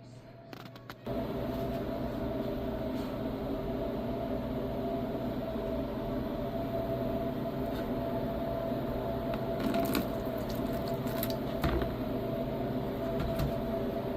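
A steady machine hum, like an electric motor or appliance running, starts suddenly about a second in and holds steady, with a few light knocks over it near the end.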